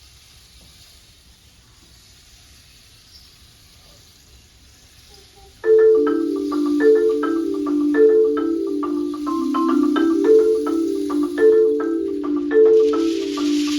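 Marimba starting to play a little over five seconds in, after faint room noise: a repeating pattern of mellow, low-to-middle notes in a steady rhythm. Near the end a rattling hiss, like a shaker, joins it.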